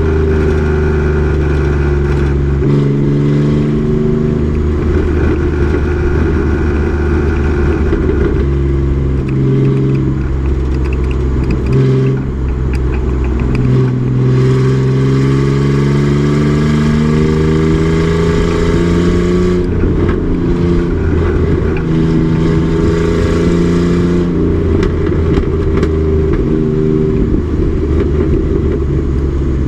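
Race truck engine at full throttle on track, its pitch climbing through each gear and dropping sharply at each shift or lift, several times over.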